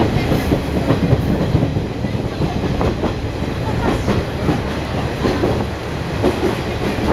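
Open-sided trolley train car running on the rails: a steady low rumble with irregular knocks and clatter from the wheels.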